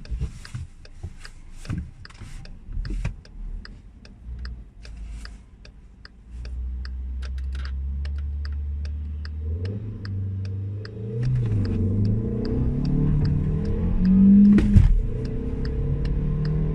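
Seat Toledo 1.2 TSI engine: quiet at first amid a few knocks and clicks, running steadily from about six seconds in, then revving up as the car accelerates from about ten seconds, with a loud thump near the end. A steady ticking, two or three a second, runs throughout.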